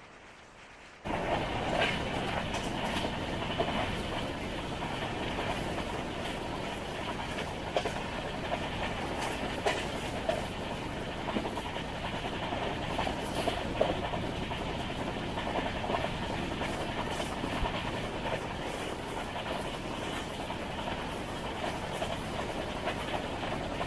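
Passenger train running along the track, steady rumble with wheels clicking over the rail joints, cutting in suddenly about a second in.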